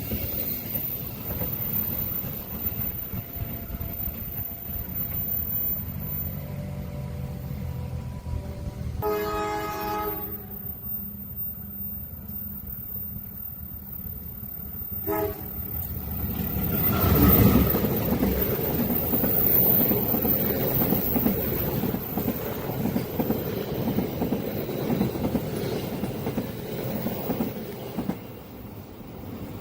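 A railway train: a low rumble, then the train horn blows for about a second and gives a short second toot some five seconds later. The train then passes close by, loudest just after the second toot, its wagons rumbling and clattering until the sound drops away near the end.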